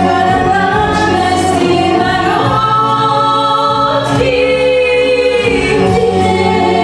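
The backing track's instrumental outro playing after the last sung chorus: loud, sustained keyboard chords with a choir-like vocal pad, shifting chord every second or two.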